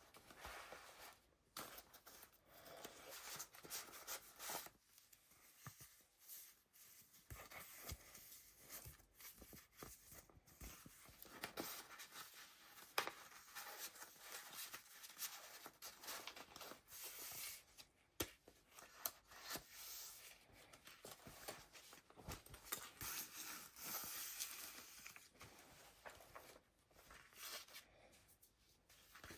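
Paper pages of a handmade junk journal being turned and handled, rustling and crinkling faintly with scattered light taps and one sharper tap about halfway through.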